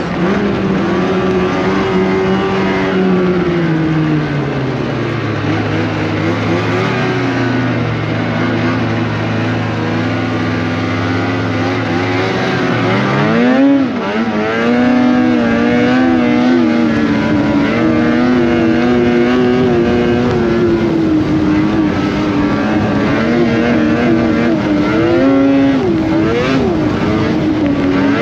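Polaris Indy snowmobile engine running under way. It drops in pitch and holds low for several seconds, then revs up sharply about halfway through and holds a higher, wavering speed, with another brief rev-up near the end.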